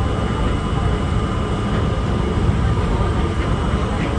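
Steady rumble of an R32 subway car rolling along yard track, heard from inside the car, with a faint steady high whine over it.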